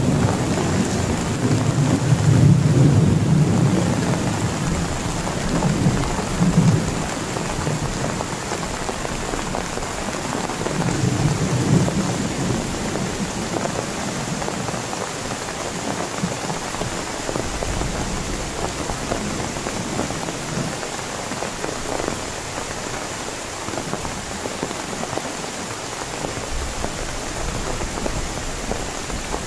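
Heavy rain falling steadily, with thunder rumbling in the first few seconds and again about eleven seconds in.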